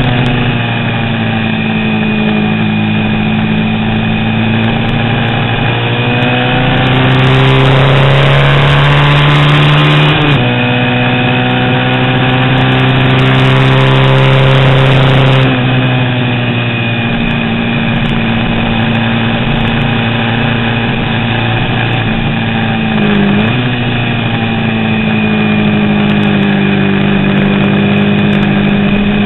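Vintage 350 cc road-racing motorcycle engine at racing revs. The pitch climbs and drops sharply at a gear change about ten seconds in, then holds high. About fifteen seconds in it falls away as the rider backs off, dips briefly near the end and climbs again on the throttle.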